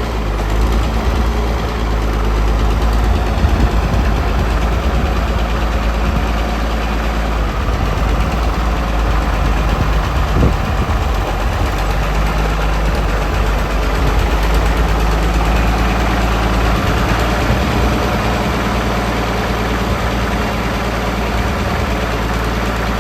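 Tractor engine idling steadily, with a deep, even rumble.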